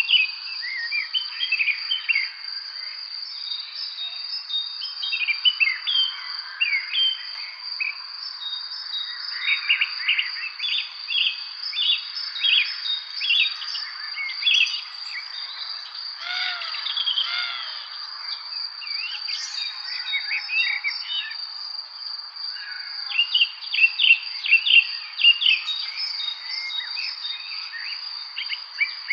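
Several songbirds chirping and singing in short, overlapping sweeping phrases, busiest in a couple of bursts. Underneath runs a steady high-pitched hum that never breaks.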